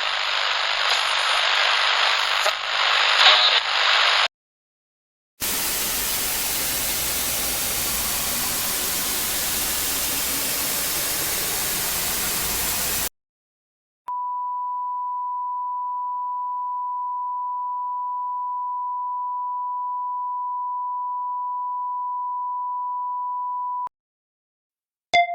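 A run of stock sound effects with short gaps between them. First a crackly hiss for about four seconds, then about eight seconds of even static noise across all pitches. Then a single steady beep tone at one pitch, held for about ten seconds before cutting off.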